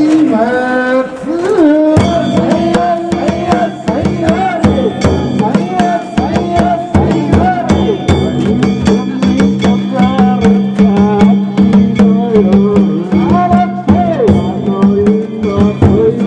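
Danjiri festival music: a taiko drum and small hand gongs struck in a fast, steady rhythm, with voices rising and falling over it.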